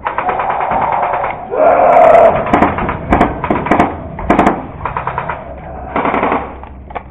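Airsoft guns firing on full auto in rapid, rattling bursts, several strings of shots in a row. A loud cry rises above the fire about two seconds in.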